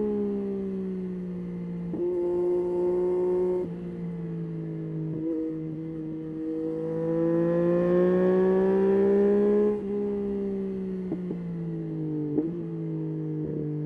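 Yamaha Tracer 9's three-cylinder engine under way, its pitch stepping down suddenly at several gear changes and climbing in a long pull in the second half before dropping at the next shift. A few short clicks near the end.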